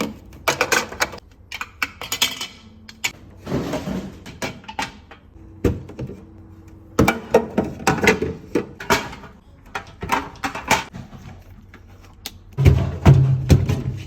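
Handling of fridge shelves, drawers and containers: an irregular run of knocks, thunks and clatters, with stretches of rubbing or wiping. A louder low sound comes in near the end.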